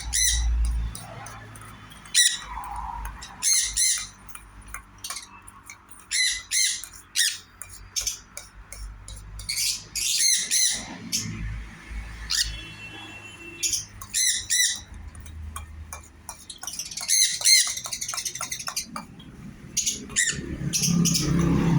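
Sun conures giving repeated short, shrill squawks and chirps, one call after another.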